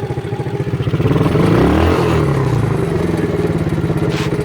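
Quad bike's small engine running at idle, revved briefly about a second and a half in, its pitch rising and then falling back.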